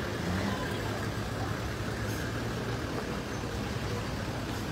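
Steady low hum of a large SUV's engine idling close by.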